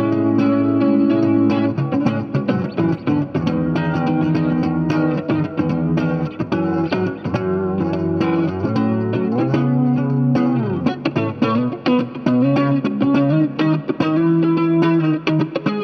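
Electric guitar played through a Dolamo compressor pedal: chords ringing out and picked notes, with a bent note about ten seconds in.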